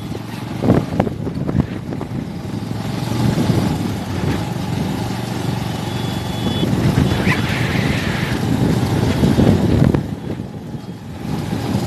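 Motorcycle running steadily on the move, a continuous engine and road rumble, dropping briefly in level near the end.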